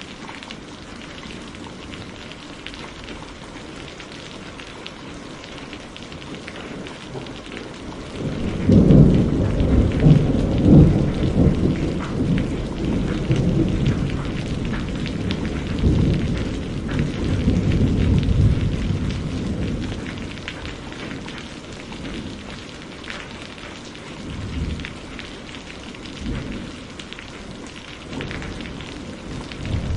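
Steady rain falling, with a long rumble of thunder that breaks in suddenly about a third of the way through and rolls on for around ten seconds, fading. Smaller rumbles follow near the end.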